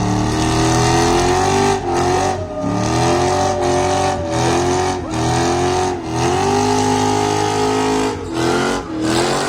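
Mopar car doing a burnout: its engine is held at high revs, with the revs dipping briefly and climbing back several times, over the hiss of spinning tyres.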